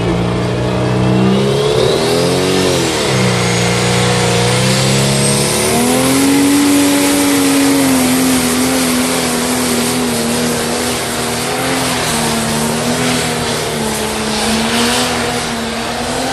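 Modified pulling tractor's engine running hard under load on a pull. A high whine climbs in pitch over the first few seconds, the revs dip and recover about two to three seconds in, then rise and hold high and steady.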